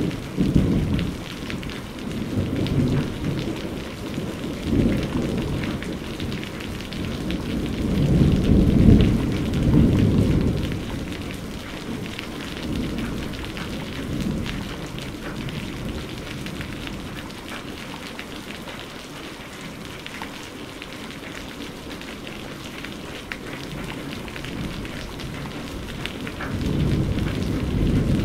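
Heavy rain falling steadily, with rolling thunder rumbling low underneath. The thunder swells loudest about eight to ten seconds in and builds again near the end.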